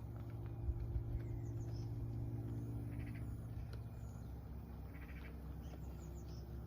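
Model garden-railway train running along the track: a steady motor hum with a couple of held tones that shift slightly about two seconds in, and light clicks of small wheels over rail joints.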